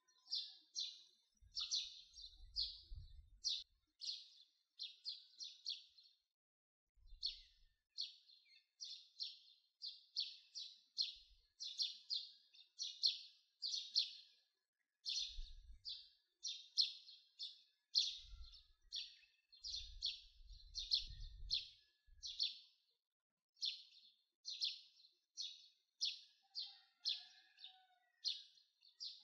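Small birds chirping: a rapid, steady series of short, high chirps, about two a second, broken by brief pauses every several seconds.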